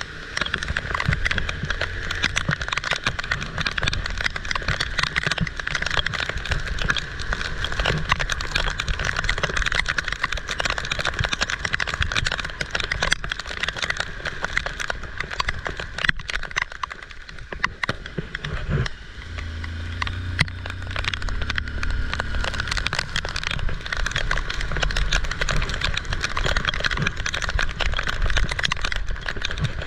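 Heavy rain pouring and pattering, with dense crackling from the drops. A motor vehicle's engine hums past about two-thirds of the way through.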